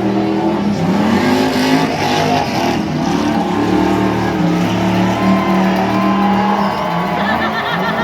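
Tuff truck's engine revving hard as it runs an off-road obstacle course, its pitch rising and falling over and over as the driver works the throttle.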